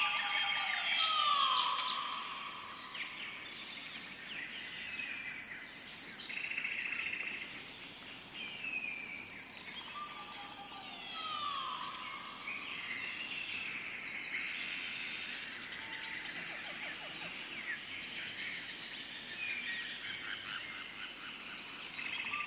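Bird calls and chirps, with whistled notes sliding down in pitch, over a steady high tone. The same stretch repeats about every eleven seconds, as in a looped nature ambience track.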